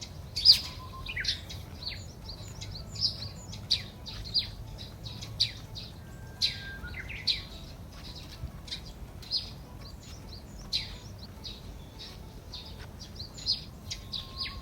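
Birds chirping and calling: many short, high chirps repeating irregularly, with a faint steady low background noise beneath.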